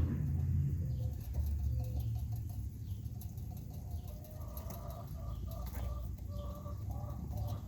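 Broody mother hen clucking softly over her newly hatched chicks, a run of short low clucks in the second half. A low rumble is heard in the first couple of seconds.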